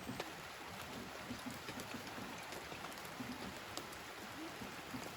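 Steady rain falling, an even hiss with scattered taps of single drops.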